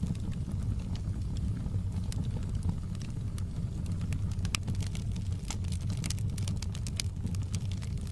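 Wood fire burning in a fireplace: a steady low rumble of the flames with frequent sharp crackles and pops from the burning wood, coming thicker in the second half.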